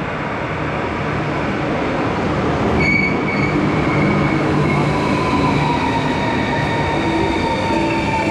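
Passenger train running on the rails, a loud rumble with high squealing tones and a whine that slowly falls in pitch over the second half as the train slows.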